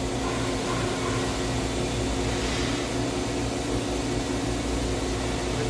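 The spindle of a Mazak VTC-16A CNC vertical machining centre runs steadily at about 3,500 rpm during a spindle speed run-up test. It gives an even hum with a few steady tones.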